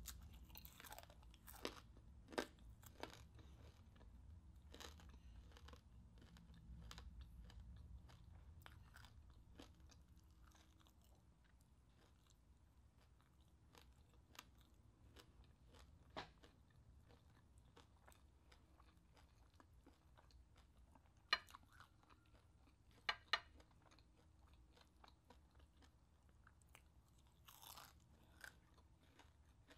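Close-miked chewing and crunching of crispy deep-fried chicharon bulaklak (pork mesentery), quiet overall with scattered sharp crunches. The loudest crunches come about two seconds in and in a few bites about three-quarters of the way through.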